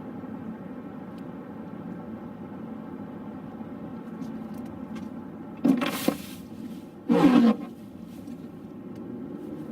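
A vehicle engine running steadily, broken by two short, loud sounds of sliding pitch about six and seven seconds in.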